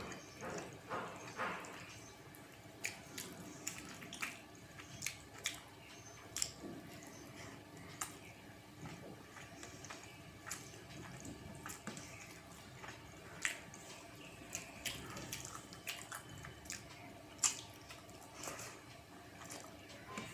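Close-up eating sounds: a person chewing a mouthful of rice and moong dal, with irregular wet smacking clicks about once or twice a second.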